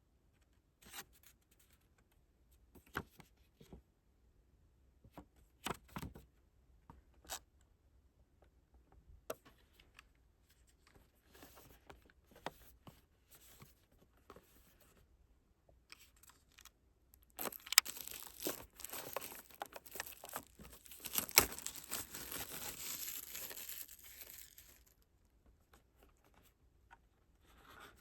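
Album packaging being handled with scattered light taps and rustles, then torn and crinkled for several seconds from about halfway through.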